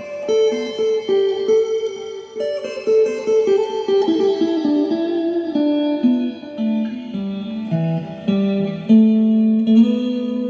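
Guitar improvising a quick single-note line that steps downward over several seconds, then settles into a few longer held notes near the end.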